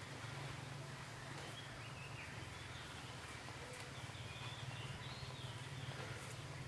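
A steady low background hum, with faint, high bird chirps between about two and six seconds in.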